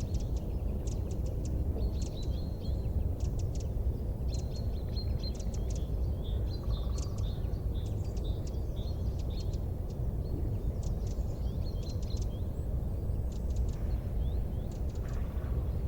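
Small birds chirping and trilling in quick high notes over a steady low rumble.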